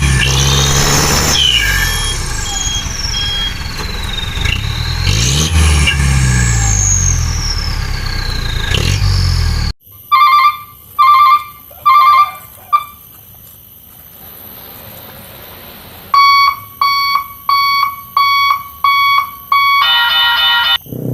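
A truck's engine revs hard, its pitch rising and falling, while it labours in mud. About ten seconds in it cuts off suddenly and electronic beeps follow: three spaced beeps, then a quicker run of beeps, ending in a fast trill.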